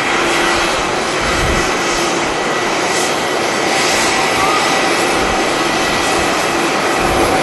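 Passenger jet engines running loud and steady, a broad rush with steady whining tones over it. Gusts of wind buffet the microphone now and then.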